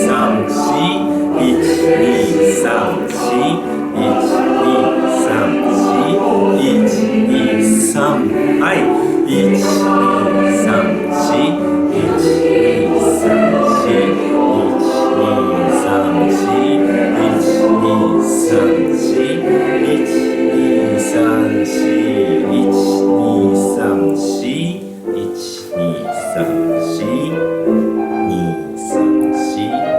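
Choir singing a choral song with piano accompaniment, with a brief dip in level about 25 seconds in.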